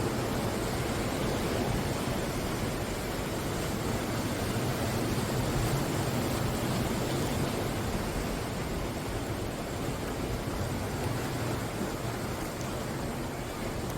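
Ocean surf washing onto the shore: a continuous wash of wave noise that swells slightly about five seconds in.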